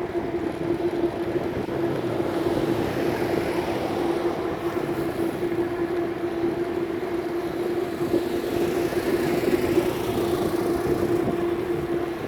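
Continuous riding noise from a moving bicycle: an even rush of wind and road over a steady hum held at one pitch.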